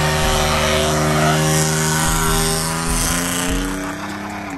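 Pickup truck engine held at high revs through a loud exhaust, its pitch creeping up slightly after about two seconds, then cut off suddenly.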